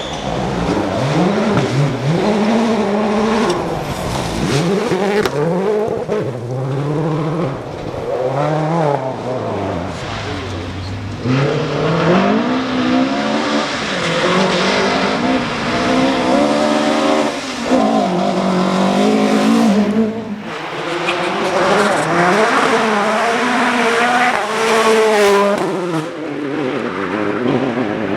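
Rally car engines driven hard on a stage, revving up through the gears again and again, each climb in pitch cut off by a sharp drop at the gear change.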